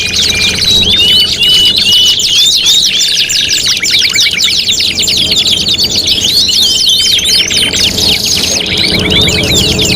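Several domestic canaries singing at once: fast rolling trills and rapidly repeated sweeping chirps overlap continuously, with short held whistled notes among them.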